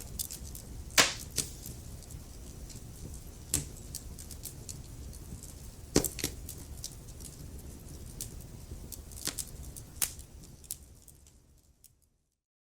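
Wood fire crackling: a steady low rumble of burning with scattered sharp pops and snaps, the loudest about a second in and about six seconds in. Near the end the sound fades out to complete silence.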